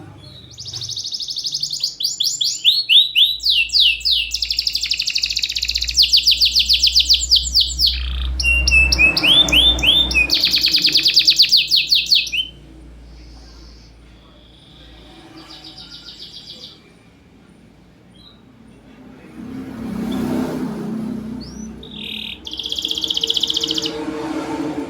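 Domestic canary singing long, rapid trills and rolling phrases with only short pauses between them, a loud unbroken stretch in the first half and shorter bursts later.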